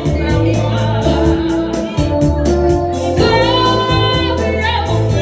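A Gypsy-style song: a woman's voice singing over a backing track with a steady bass and an even beat, holding one long note with vibrato about three seconds in.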